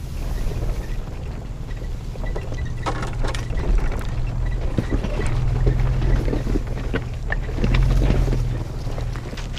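Nissan Xterra driving off-road: a steady low engine drone that shifts pitch in small steps, over a scatter of clicks, knocks and rattles from the truck jolting over rough ground.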